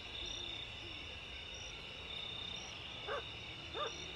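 A steady outdoor chorus of insects and frogs, the insects chirring high and pulsing about once a second. A dog barks twice, briefly, about three seconds in.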